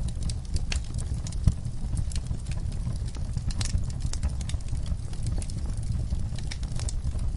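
Logs burning in a fireplace, crackling with frequent irregular sharp pops over a steady low rumble of the flames.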